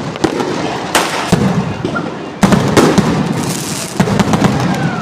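Fireworks going off in a rapid string of crackling pops and bangs, with a sudden louder volley about two and a half seconds in.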